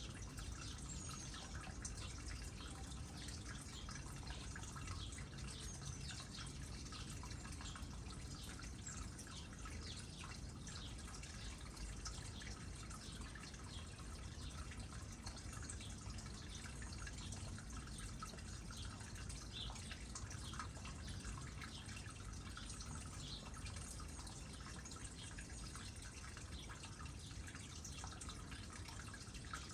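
Water trickling and dripping into a small pond: a steady patter of many small drips over a low, even rumble.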